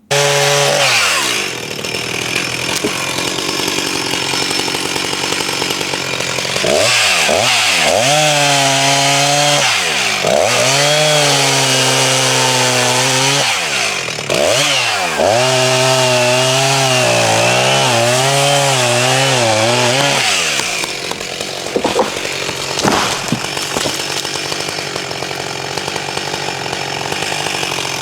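Two-stroke chainsaw running and cutting wood, its engine pitch sagging and recovering again and again as the chain loads in the cut. A couple of sharp knocks come about two-thirds of the way in.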